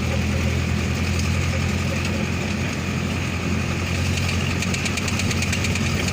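Vehicle engine running steadily at an even pitch, heard from on board while driving.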